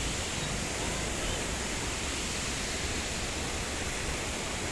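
Waterfall pouring: a steady rushing of falling water.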